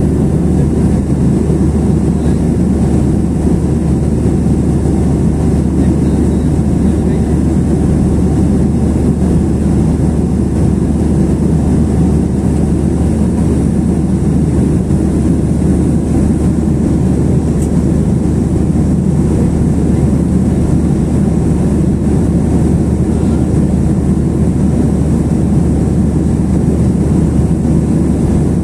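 Airliner cabin noise in cruise flight: a steady, unbroken low rumble of engines and airflow.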